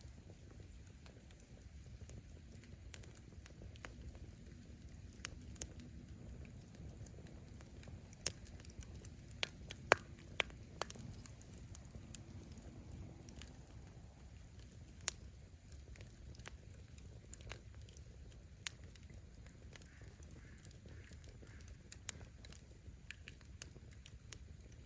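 Campfire burning: firewood crackling with scattered sharp pops over a low steady rumble, with a cluster of louder pops about eight to eleven seconds in.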